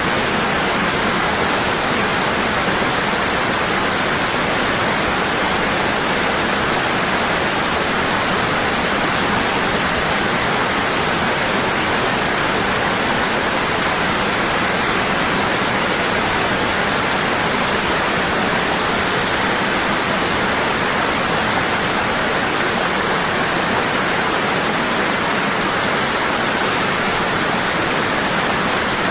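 Waterfall: water falling heavily and constantly, a steady even rush with no breaks.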